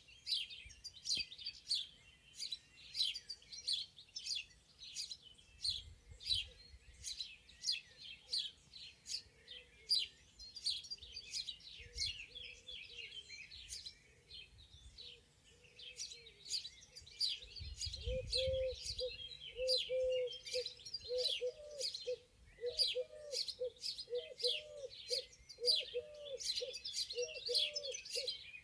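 Several songbirds chirping and singing in a spring forest, short high notes coming thick and fast. About two-thirds of the way in, a low call starts repeating steadily beneath them.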